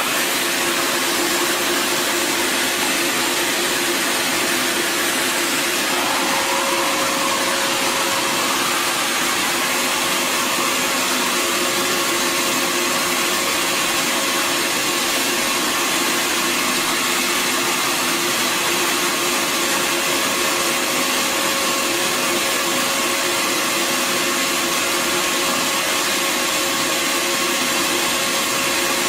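Bissell Garage Pro wall-mounted wet/dry vacuum with a 12-amp motor, running steadily with a rush of air and a steady whine. About six seconds in, a fainter tone wavers briefly in pitch.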